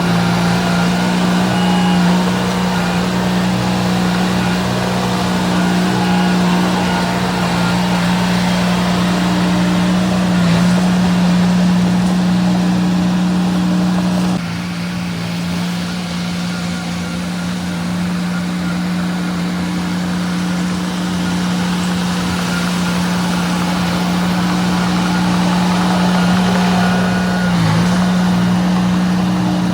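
Small bulldozer's diesel engine running steadily under work, a constant drone that drops a little in loudness about halfway through.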